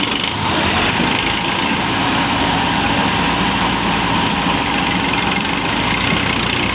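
Tractor engine running steadily with an even low throb.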